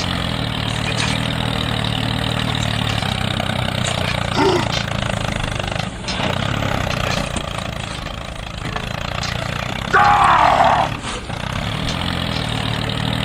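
Small motor of a miniature DIY tractor running steadily with an even hum that dips briefly twice. About ten seconds in, a short, louder squeal falls in pitch.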